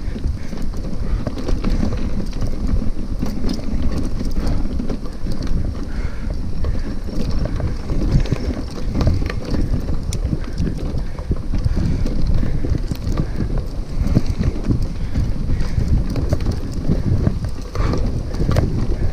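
Bicycle ridden over a rough dirt trail, heard from a bike-mounted camera: a steady rumble of tyres and wind on the microphone, with frequent small rattles and knocks from the bike over bumps.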